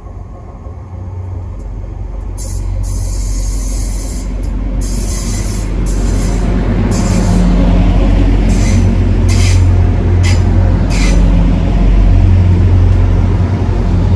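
A train approaching and passing close by: a deep rumble builds up over the first several seconds and stays loud, with a rushing hiss of wheels on rail that swells and drops in waves on top.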